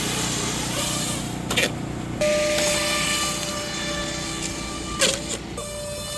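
Small unmanned aircraft's electric motors and propellers running with a steady hum, a higher whine joining about two seconds in. There are two short knocks, one about one and a half seconds in and one about five seconds in.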